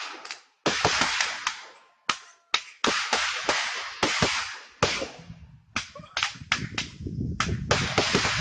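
Consumer multi-shot fireworks cake firing: a rapid run of sharp bangs, each fading over about half a second, with a brief lull about two seconds in. From about five seconds in the shots come thicker and faster over a low rumble.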